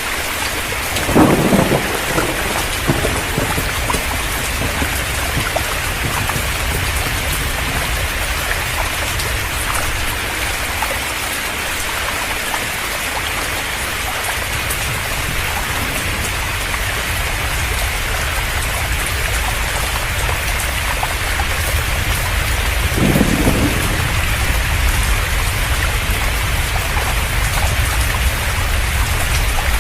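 Heavy rain pouring down steadily over a low rumble, with two short louder bursts: one about a second in, another near 23 seconds.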